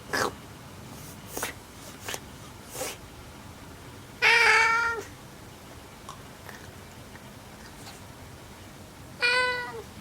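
An old cat meows twice: one long meow about four seconds in and a shorter one near the end that drops in pitch as it ends. A few short, soft noises come in the first three seconds.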